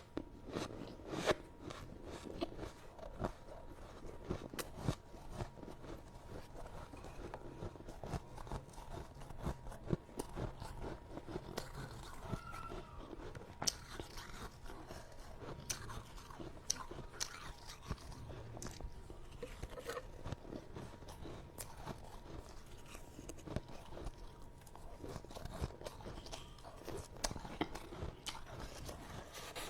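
Close-miked chewing of soft freezer frost (snow ice), with a steady run of small, sharp crunches and crackles as it is bitten and crushed.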